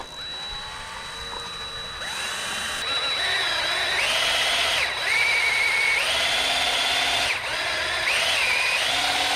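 Power drill running under load, its motor whine rising and falling in pitch several times as the trigger is eased and squeezed, with short dips about five and seven seconds in.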